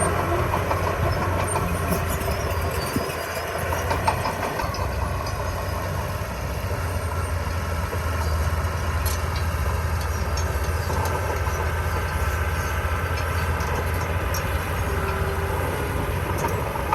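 Heavy diesel earthmoving machinery running steadily with a low engine drone, with occasional metallic clanks and clicks of the kind crawler tracks make.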